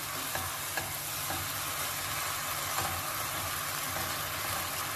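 Chicken, pasta and vegetables sizzling steadily in a pan on the hob as a silicone spatula stirs them, with a few faint ticks from the stirring.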